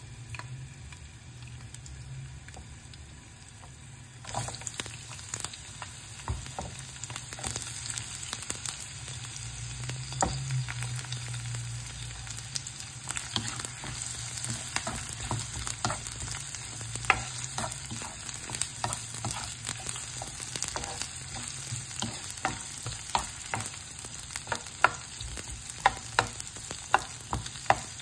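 Garlic and sliced onions sizzling in hot oil in a nonstick frying pan, the sizzle growing louder about four seconds in. Stirring adds sharp clicks and taps against the pan, more frequent toward the end.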